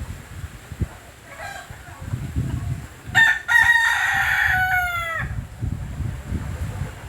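A rooster crowing once, a drawn-out call of about two seconds starting about three seconds in and dropping in pitch at the end, over a low rumble of wind on the microphone.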